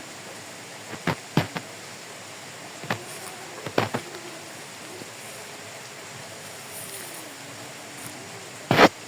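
A few separate sharp knocks over a steady hiss, the loudest just before the end, with faint wavering voice-like tones in the background.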